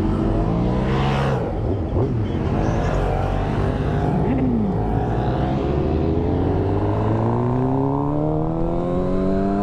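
Suzuki GSX-R inline-four sport bike engine running under way, its pitch dropping about a second in, then rising steadily over the last few seconds as the bike accelerates.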